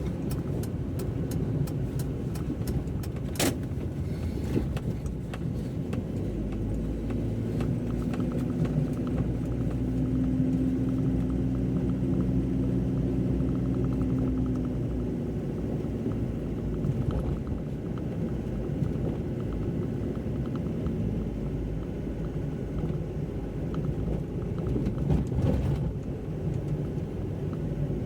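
Car driving on a wet road, heard from inside: a steady low rumble of tyres and engine. An engine tone comes through more strongly for several seconds in the middle.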